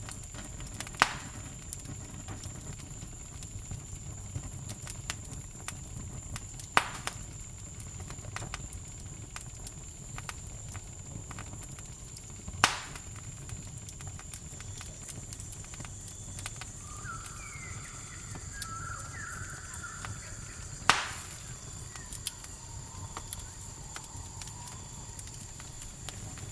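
Campfire crackling, with four loud sharp pops spread through it and smaller ticks between, over a steady high chirring of crickets and a low rumble. A short chirping bird call comes about two-thirds of the way through.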